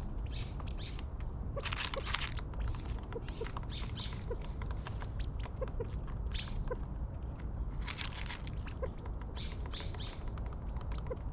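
Wild birds at a backyard feeder: scattered short chirps and ticking calls, with a few louder harsh rasping bursts, over a steady low background rumble.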